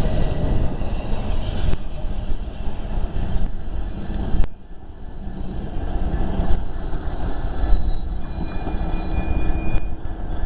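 Train moving through a station: a steady rumble with thin, high-pitched squeals from the rails. The loudness dips suddenly about four and a half seconds in.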